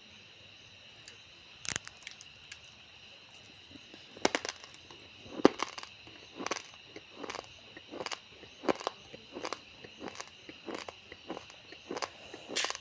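Raw, uncooked rice grains being chewed: crisp crunches in a steady run of about two a second, starting about four seconds in after a single sharp crack earlier. A steady high insect chirring runs underneath.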